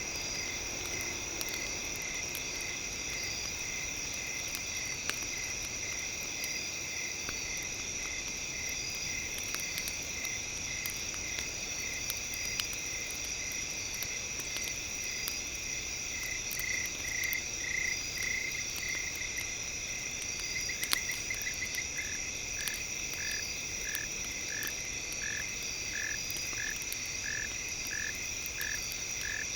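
Night-time nature ambience: a steady chorus of insects trilling, with a repeated chirping call that settles into about two chirps a second in the second half. Faint scattered campfire crackles sound over it.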